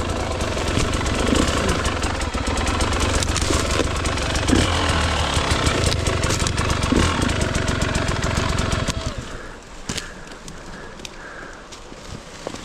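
Gas Gas dirt bike engine running at low revs under load on a rough climb, then cutting out about nine seconds in.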